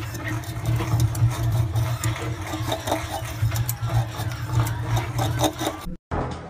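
Bamboo rat gnawing a green bamboo stalk: a fast, continuous run of crunching and scraping over a low pulsing hum. It cuts off suddenly near the end.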